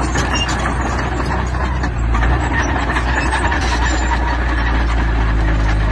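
Diesel engine of heavy earthmoving machinery running steadily, with a dense, continuous clatter over the low engine sound.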